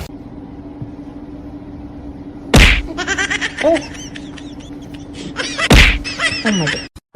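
Two loud smacks about three seconds apart, with a run of quick, high chirping squeaks between them over a steady low hum.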